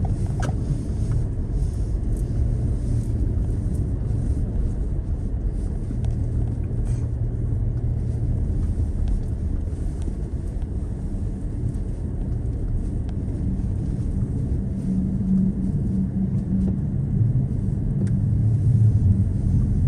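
Car engine running with a steady low rumble, with faint pitch lines that drift slightly up and down.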